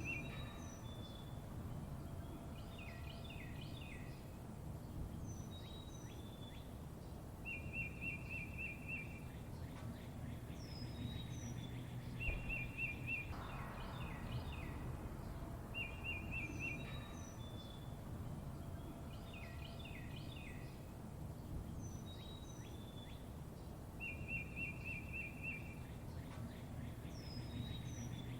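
Songbirds chirping: a short rapid trill recurs every four to eight seconds, mixed with higher chirps and quick down-slurred notes, over a steady low background rumble.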